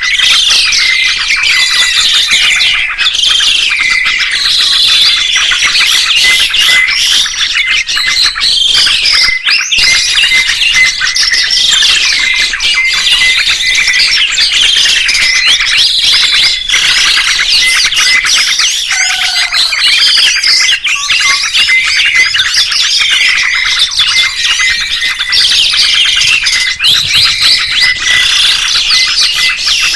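Songbirds chirping and whistling without a break, many quick rising and falling calls overlapping.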